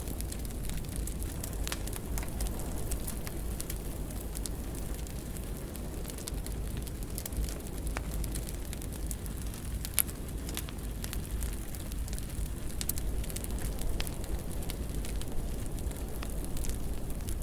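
Fire in a fireplace crackling: a steady low rumble of flames with scattered sharp pops and snaps, one sharper pop about ten seconds in.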